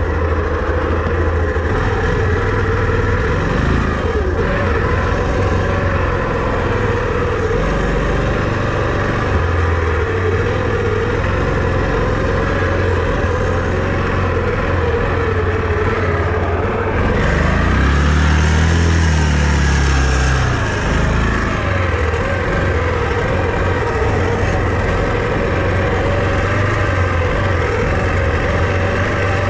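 A vehicle engine running steadily while riding, with a strong low drone. A little past halfway it revs up for a few seconds, then settles back.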